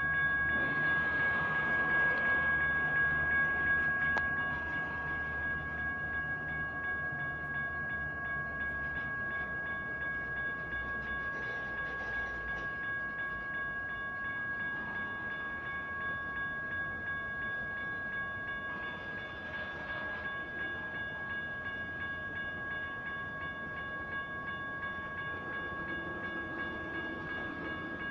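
General Signals Type 1 electronic crossing bells ringing steadily at a railroad grade crossing, with a train's low rumble that fades away over the first dozen seconds.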